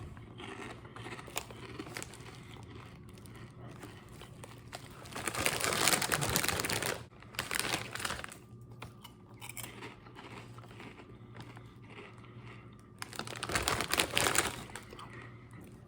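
A foil chip bag of Doritos 3D crinkling as it is handled, in two louder bursts of rustling about five and thirteen seconds in, with faint crackles in between.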